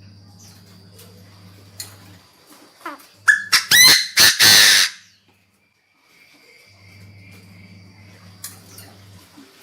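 Chinese francolin calling: one loud, harsh phrase of several quick rising notes lasting under two seconds, about three seconds in. A faint steady low hum lies underneath.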